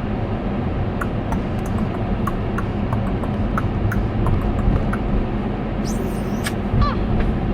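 Steady road and engine rumble of a car driving, heard from inside the cabin, with a few faint ticks and a short high chirp from a cockatiel near the end.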